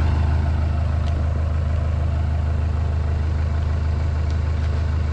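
Hitachi EX100 excavator's diesel engine idling steadily, a deep even drone.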